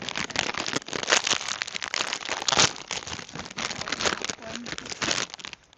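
Crinkling and rustling of plastic snack packets being handled and rummaged through, a dense run of crackles that drops away briefly near the end.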